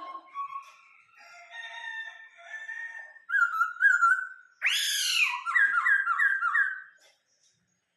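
Laughingthrush (khướu) singing a varied song of clear whistled phrases. About halfway through it gets louder, with a sweeping note and then a run of about four short falling whistles. The song stops about a second before the end.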